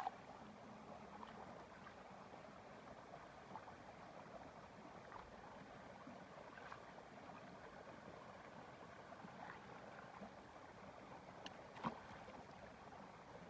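Faint steady outdoor background hiss with scattered soft ticks, and one sharper click about twelve seconds in.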